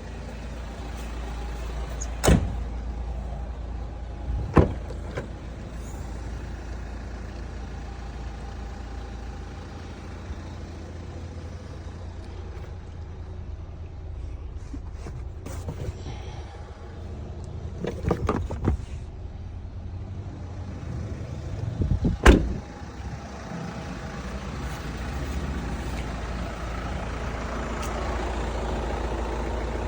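Steady low rumble of a 2013 Hyundai Santa Fe's 2.2 turbo-diesel engine idling. Sharp knocks break through about two and four and a half seconds in, a few more come around eighteen seconds, and the loudest comes about twenty-two seconds in.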